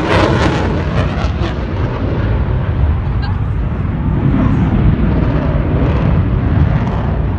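Jet noise from an F-22 Raptor's twin turbofan engines in a flyby: crackling for the first second or so, then a steady low rumble.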